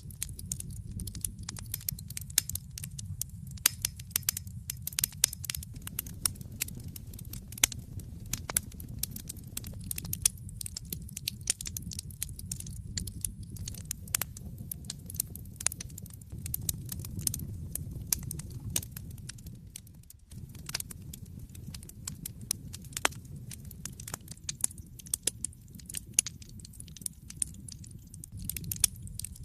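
Wood fire burning in a fireplace, crackling with many sharp pops and snaps over a steady low rumble, dropping briefly about twenty seconds in.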